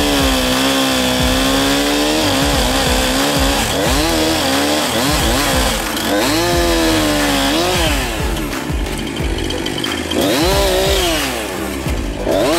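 Two-stroke chainsaw running at high revs, its pitch repeatedly sagging and climbing back as it cuts into hedge stems. It falls quieter for a couple of seconds about eight seconds in, then revs up again.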